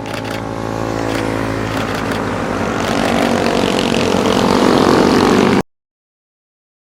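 Motorcycle engine running and growing steadily louder as it approaches, then cutting off suddenly about five and a half seconds in.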